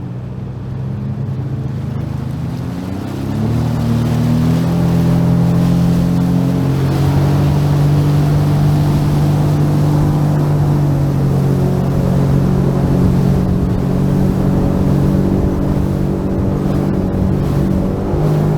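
Sea-Doo Fish Pro jet ski engine accelerating, its pitch and loudness rising over the first four seconds, then holding a steady high note at cruising speed.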